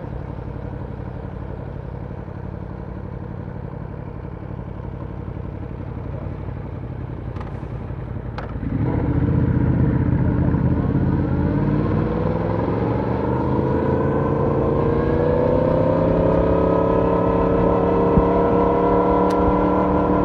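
Yamaha YZF-R1 crossplane inline-four running steadily at low revs. A couple of faint clicks come just before the throttle opens about nine seconds in. The exhaust note then grows louder and its pitch climbs slowly and steadily as the bike pulls away.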